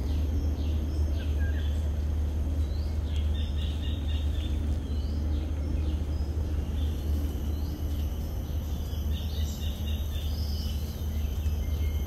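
Birds chirping in many short, repeated calls over a steady low rumble.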